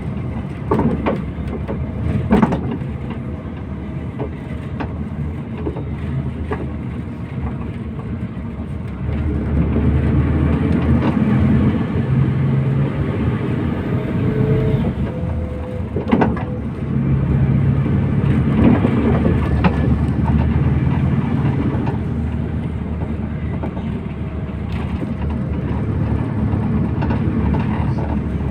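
MAZ-241 city bus under way, heard from inside: the engine running with road and body noise, growing louder twice for several seconds, with a few sharp knocks and rattles.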